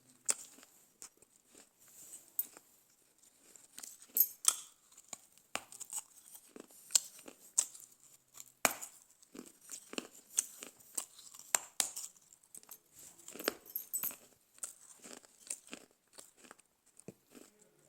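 Dry baked stove clay (chikni mitti) bitten and chewed close to the microphone: irregular, sharp, crisp crunches and cracks with short pauses between them.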